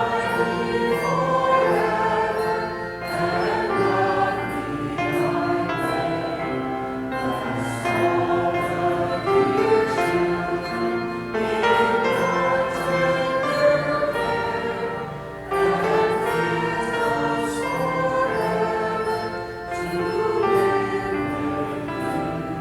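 A choir singing in phrases, with held notes and brief breaks between the lines.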